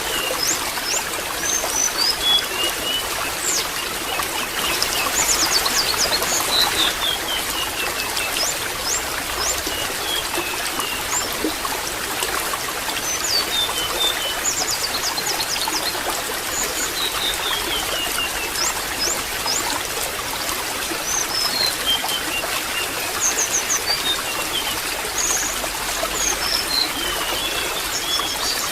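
Water trickling steadily, with a small bird singing over it: high chirps and a quick falling run of notes, repeated every several seconds.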